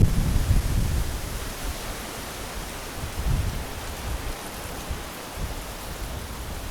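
Light rain falling steadily, an even hiss, with wind rumbling on the microphone at the start that eases within about a second.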